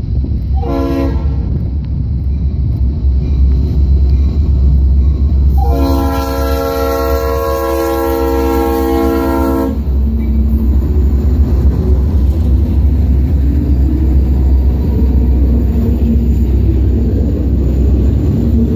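Norfolk Southern diesel freight locomotives (SD60I, D9-40CW and SD70) passing close by. The lead unit's horn sounds a chord in a short blast, then a long blast of about four seconds. A heavy engine rumble follows as the units go by, then loaded flatcars rolling past.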